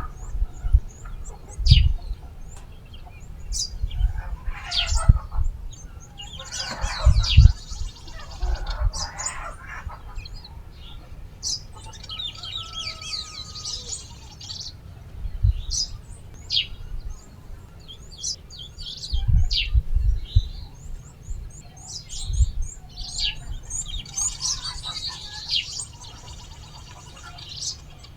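Small birds chirping and calling throughout, with chickens clucking at times, and several dull low thumps.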